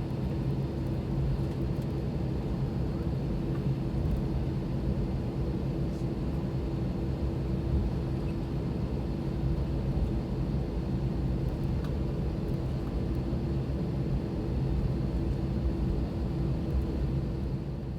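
Airbus A320's IAE V2527-A5 turbofan engines running at idle, heard from inside the cabin as a steady low rumble with a constant hum, just before takeoff power is applied.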